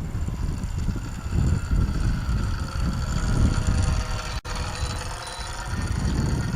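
Wind buffeting the microphone over the thin, steady whine of a small brushless outrunner electric motor and propeller, its pitch drifting slightly as the model flies. About five seconds in come two brief high beeps from the radio transmitter.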